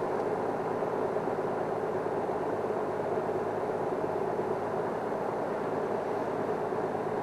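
Safari vehicle's engine running steadily, a low even hum with no change in pitch.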